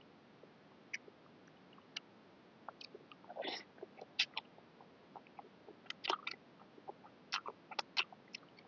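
Close-miked eating of noodles: scattered wet mouth clicks and smacks of chewing, with a short slurp about three and a half seconds in and clusters of sharper smacks around six and eight seconds.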